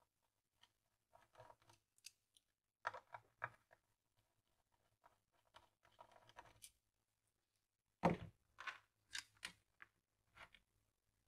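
Scattered clicks, scrapes and crunches of hand tools working on the transceiver's output stage while the paired output transistors are being removed, with a sharper knock about eight seconds in followed by a quick run of clicks.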